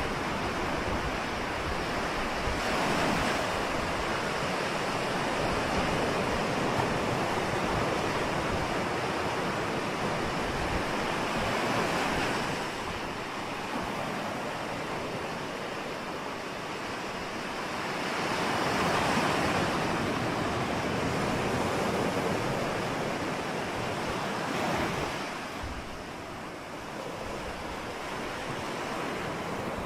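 Ocean surf: a steady wash of waves that swells louder four times as bigger waves come in.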